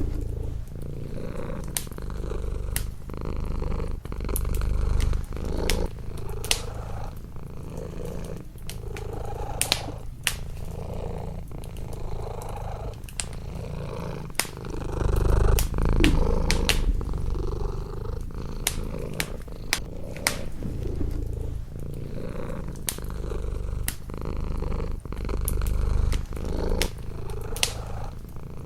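Domestic cat purring close up, a continuous low purr that swells and fades, with a wood fire's sharp crackles and pops scattered through it.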